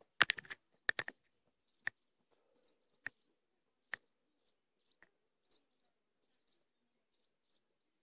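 Small birds chirping over and over, short high calls with no steady rhythm. A cluster of loud, sharp clicks comes in the first second, and single ones follow at about two, three, four and five seconds in.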